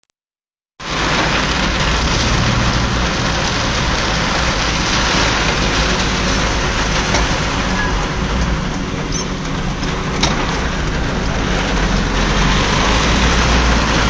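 Heavy rain falling, a steady hiss that begins almost a second in, with a low rumble underneath and one sharp click about ten seconds in.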